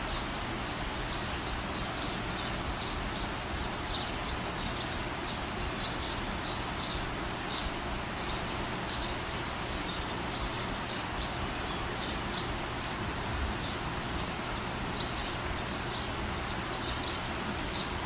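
Small birds chirping: short, high chirps repeated irregularly, a few each second, over a steady outdoor background hiss.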